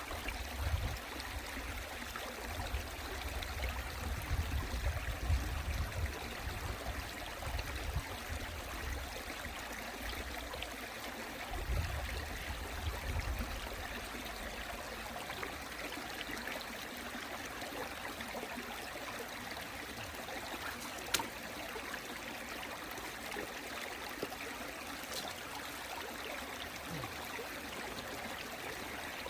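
Valley stream water rushing and trickling over rocks in a steady hiss. Bursts of low rumble come and go during the first half, and there is a single sharp click about two-thirds of the way through.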